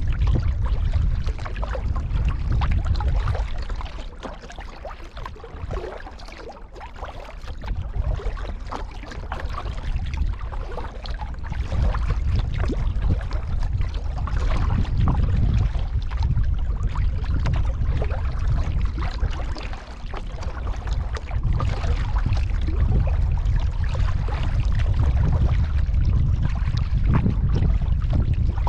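Kayak on the water: irregular paddle splashes and water sloshing against the hull over a heavy low rumble. The sound eases off for a few seconds about four seconds in, then builds back up.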